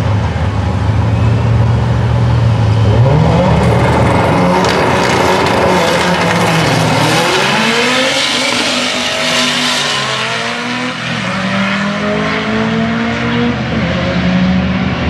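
A turbocharged LS V8 Chevy Silverado and a Mitsubishi Lancer Evolution VIII are drag racing. The engines are held at a steady high rev for about three seconds, then launch. Their pitch climbs repeatedly as they accelerate, dropping back at each gear shift.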